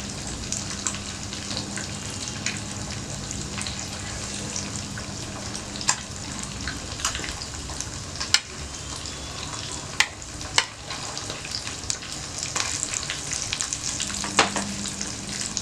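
Freshly grilled sardines sizzling and crackling in hot oil on the microwave grill tray, with a few sharp clicks of handling. A low steady hum sits under it for the first part and comes back near the end.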